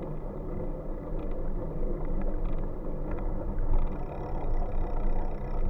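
Steady low rumble of a bike in motion, riding along.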